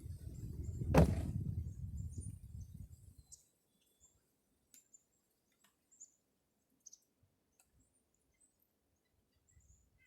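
Low rumbling handling noise with a single sharp knock about a second in, ending after about three seconds. Then it goes almost quiet except for faint, short, high bird chirps now and then.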